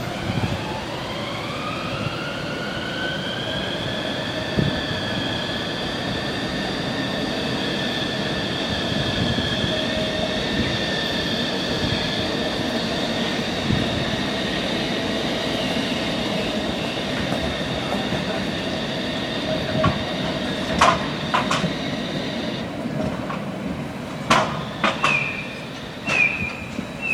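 A tram's steel wheels squealing on a tight street-track curve. The high squeal rises in pitch over the first few seconds, holds steady, and stops about 23 seconds in. After it come several sharp clicks and knocks of wheels over the track.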